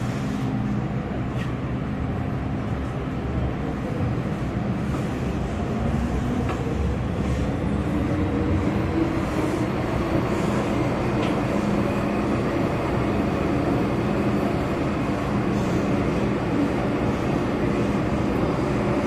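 MTR Kwun Tong Line M-Train running: a steady rumble of wheels on rail with a low motor hum. It grows slightly louder about a third of the way in.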